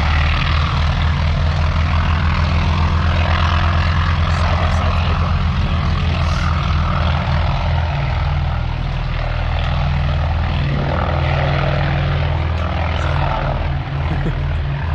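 Propeller aircraft engine running with a steady low drone.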